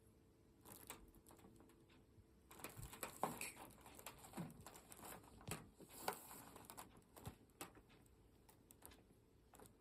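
Faint rustling and soft irregular taps of a cat moving about, busiest in the middle of the stretch.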